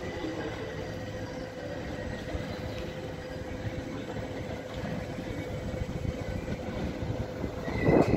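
NS double-deck electric train running at the platform: a steady low rumble with a level hum. Near the end the sound swells louder and a high squealing tone rises in pitch as a second train comes in.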